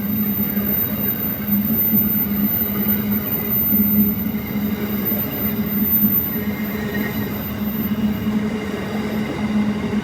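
Grain train running by: steady rolling noise with a low hum and no breaks.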